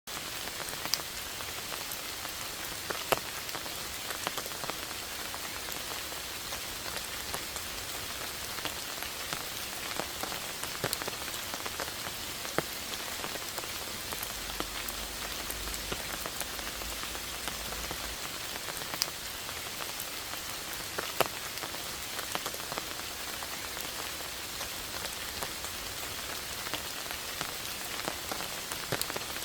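Steady rain falling: an even hiss of drops, with scattered sharper individual drop hits.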